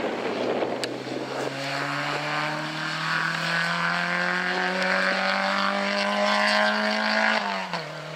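Rally car engine pulling hard under acceleration, its pitch climbing steadily for several seconds. Near the end the revs drop sharply and then hold steady.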